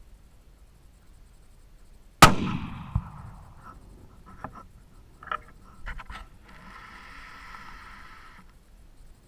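A single hunting rifle shot about two seconds in, with a long ringing tail over the bush. A fainter crack follows under a second later, timed like the bullet striking the impala 177 m away. Then come several sharp clicks and a short rustle.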